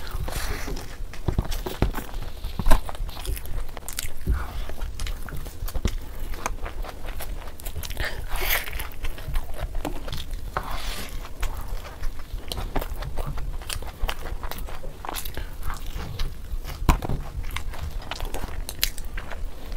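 Close-miked mukbang eating: biting and chewing boiled eggs in masala gravy with puri, with many sharp mouth clicks.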